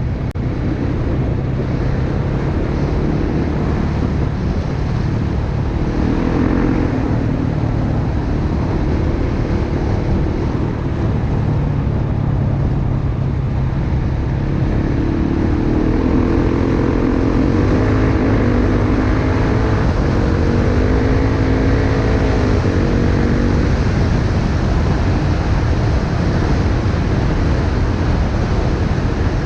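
Dirt bike engine running while riding, its pitch rising and falling with the throttle a little after five seconds in and again through the middle, over steady wind rush on the microphone.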